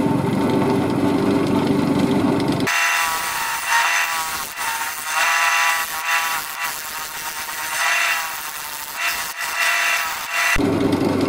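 Wood lathe running, then from about three seconds in a turning tool cutting into the spinning cherry blank: a scraping, shaving sound that swells and fades in waves. The lathe's steady motor hum alone returns near the end.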